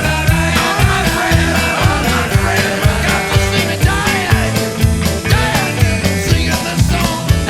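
Blues-rock band playing an instrumental passage: drums keep a steady beat under the bass, and a lead line plays bending notes.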